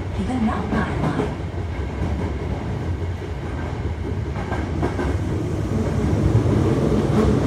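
Hankyu 1300 series electric train, with a Toyo Denki IGBT inverter drive, running in a tunnel, heard from inside the passenger car. A steady rumble of wheels on rail and running gear grows louder over the last couple of seconds.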